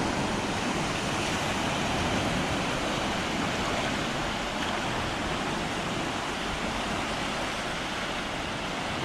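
Ocean surf on the shore, a steady rushing wash of waves that eases off slightly.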